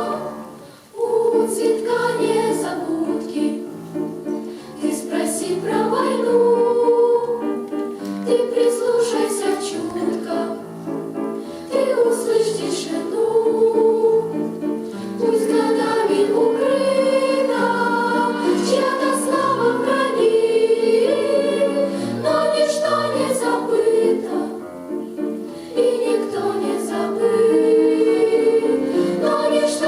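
A choir singing with accompaniment, in phrases with short breaks.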